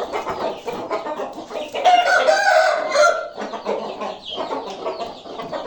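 Desi chickens clucking and squawking over one another, with one longer held call, likely a rooster crowing, about two seconds in.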